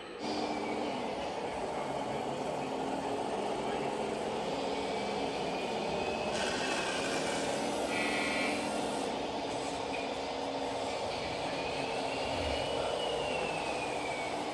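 Radio-controlled scale model truck or tractor driving, its electric drive whining higher and lower as it speeds up and slows down over a steady running noise.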